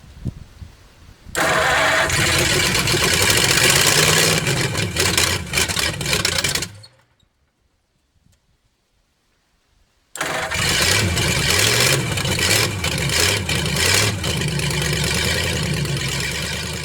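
Vehicle engine cold-starting and running, its pitch rising and falling as it is revved. The sound starts suddenly a little over a second in, breaks off abruptly at about seven seconds, and after about three seconds of silence the engine is heard running again, fading away near the end.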